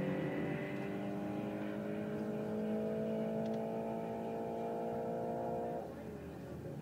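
Car engine running steadily at low revs with its pitch creeping slightly upward, then dropping away abruptly near the end.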